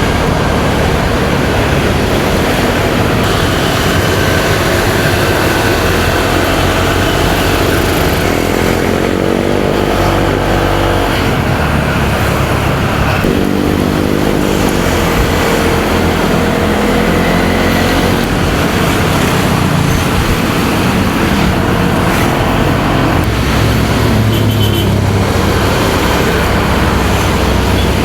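Motorcycle engine running on a ride through city traffic, with road noise and wind on the microphone; the engine pitch rises as it accelerates about ten seconds in and again a few seconds later.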